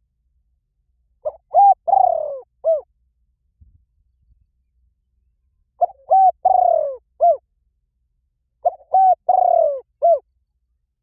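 A recorded bird call played on a loop as a lure: a short phrase of clear whistled notes with one longer falling note, repeated identically three times about three seconds apart.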